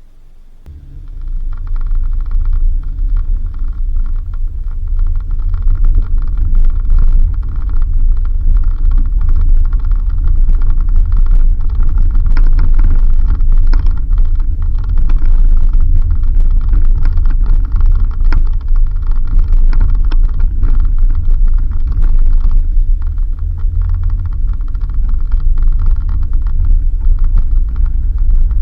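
Suzuki Jimny driving on a dirt road: a continuous low rumble of engine and tyres with frequent rattles and knocks from the bumpy track, starting about a second in.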